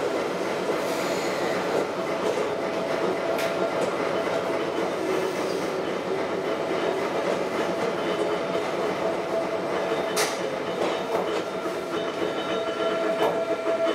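Ohmi Railway electric railcar MoHa 224 running, heard from inside the passenger cabin: a steady rumble with a steady whine, and a few sharp clacks from the wheels on the track.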